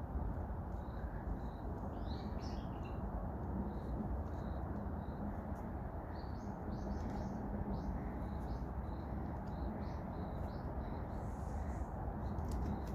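Wild birds chirping in a forest: short high calls repeated every half second or so, with busier bursts of chirping about two seconds in and again around six to eight seconds, over a steady low rumble.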